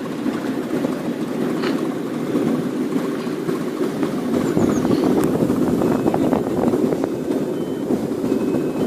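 Miniature railway train running along its track, heard from aboard: a steady rumble of wheels on the rails with a few faint clicks.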